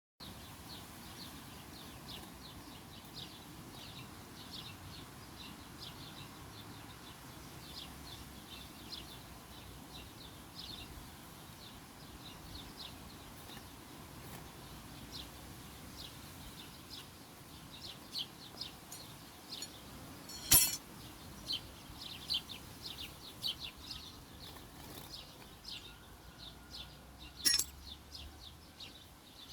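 Small songbirds chirping, many short high calls in quick runs throughout. Two sharp clicks stand out, one about two-thirds of the way through and one near the end.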